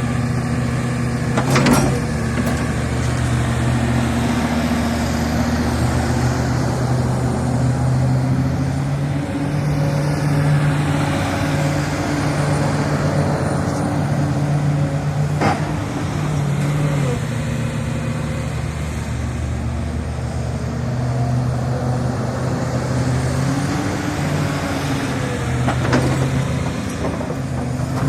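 Excavator's diesel engine running steadily, its pitch rising and falling a little as the load changes. Three sharp knocks cut through it: about two seconds in, halfway through, and near the end.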